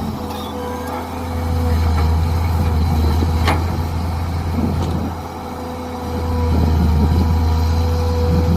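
Mini excavator's engine running steadily while digging, a low hum with a steady whine over it, growing louder twice, and one sharp knock about three and a half seconds in.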